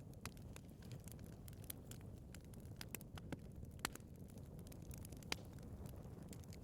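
Wood fire burning in a fireplace: a low, steady rumble of flames with irregular crackles and pops from the burning wood, two sharper pops a little past the middle.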